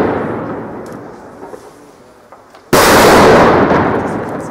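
Two loud firework bangs: the echo of the first dies away, and a second sharp bang comes about two and a half seconds in, then fades slowly.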